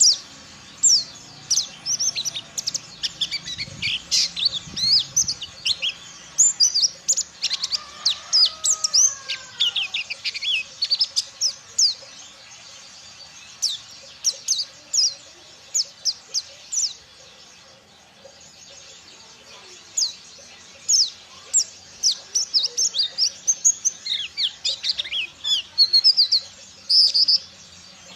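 Pleci (white-eye) singing: dense runs of fast, high, sharp chirps and twitters, with a lull about halfway before the singing picks up again.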